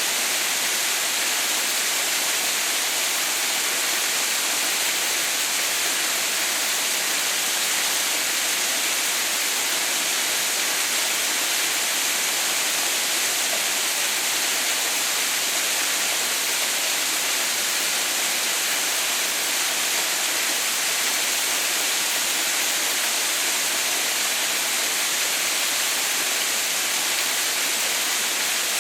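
Waterfall running steadily: an even, unbroken hiss of falling water.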